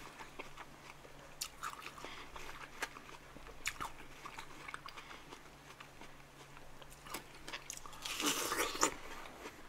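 Close-miked eating of watermelon: soft chewing clicks and wet mouth sounds, then a louder crunching bite into a fresh slice about eight seconds in.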